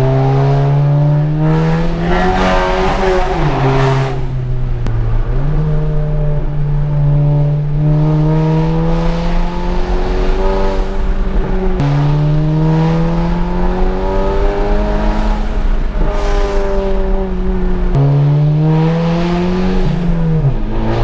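Straight-piped, stage 2 tuned VW Golf GTI Mk7 turbocharged four-cylinder accelerating hard through the gears: the engine's pitch climbs steadily, then drops suddenly at each upshift, three times. Bursts of rushing noise come near some of the shifts.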